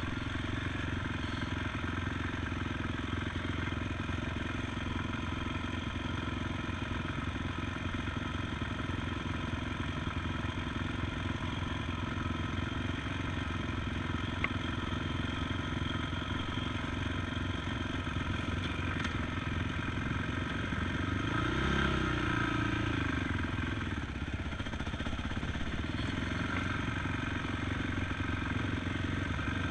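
ATV engine running steadily while riding, with a brief rise and fall in revs about two-thirds of the way through.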